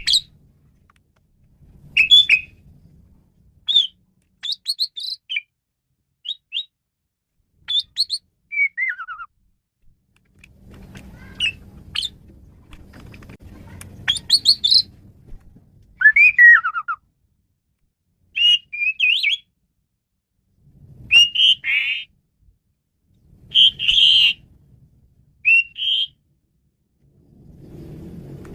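Male Asian pied starling (jalak suren) singing a varied song: short separate phrases of clear whistles, chirps and falling slurred notes with brief pauses between them.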